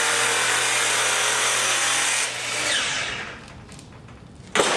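An electric tool's Walter Chop-Cut cut-off wheel slicing through aluminum, with a loud, steady grinding hiss. About two seconds in the cut ends and the wheel spins down with a falling whine. Near the end there is a sharp clank.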